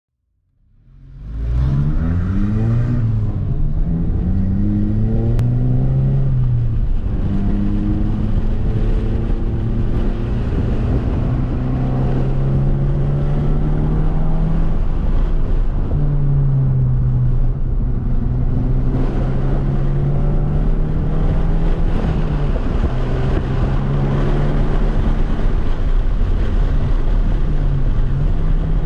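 Turbocharged 2.0-litre four-cylinder engine of a 2006 VW GTI (MK5), with a catless downpipe and Magnaflow cat-back exhaust, heard from inside the cabin on track. It fades in about a second in and rises and drops in pitch through a couple of gear changes. It then runs at fairly steady revs, with a few brief dips.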